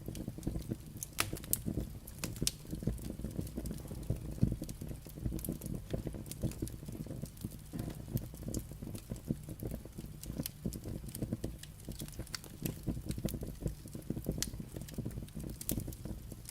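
Firewood burning with irregular sharp crackles and pops over a steady low rumble of flame.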